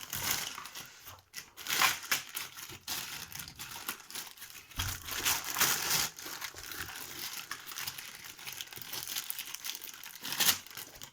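Packaging crinkling and rustling in bursts as it is unwrapped by hand to free a soundbar, with louder flurries of crackling about two seconds in, around the middle and near the end.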